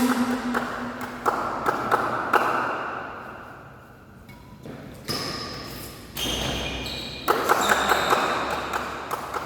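Badminton rally in a sports hall: rackets striking the shuttlecock in a string of sharp hits, echoing in the hall, with short high squeaks between them.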